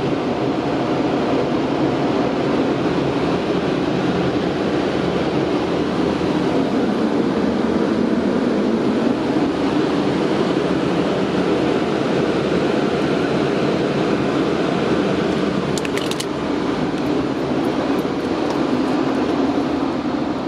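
Steady rushing air from car wash blowers, heard from inside the car's cabin, with a few faint clicks about two-thirds of the way through.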